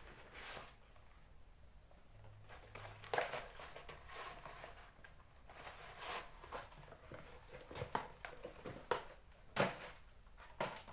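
Scattered light rustling, crinkling and soft knocks from handling a hairdryer's box and packaging during unboxing.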